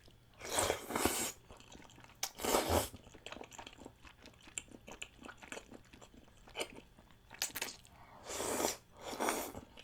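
Close-miked eating: wet chewing and small mouth clicks on rice cake and thick Chinese glass noodles in spicy chicken-feet broth. Four longer hissing bursts break in, about a second in, near three seconds, and twice near the end.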